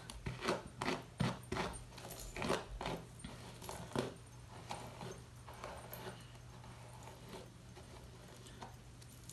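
A brush being pulled through a section of damp, stretched type 4 natural hair to detangle it: short brushing strokes, about two a second, that grow fainter after about four seconds.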